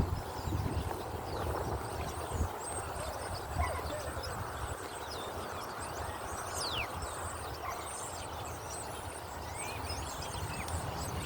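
Wind buffeting the microphone with a steady rushing hiss, calmer in the middle. Faint high chirps come and go throughout, with one clear falling whistle about six and a half seconds in.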